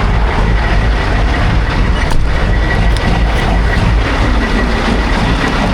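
A large vehicle engine running steadily, a low rumble with a faint steady high whine over it and a single click about two seconds in.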